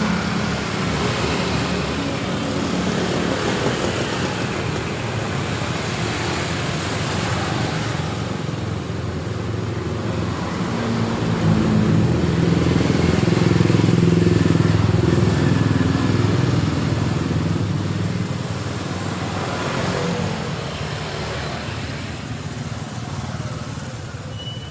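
Road traffic going by, mostly motorcycles. One louder engine passes through the middle and fades away.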